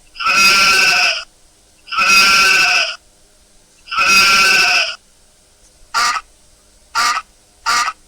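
Sheep bleating: three long calls of about a second each, then three shorter, quicker calls near the end.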